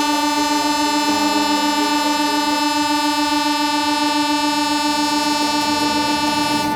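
A train horn sounding one long, steady blast.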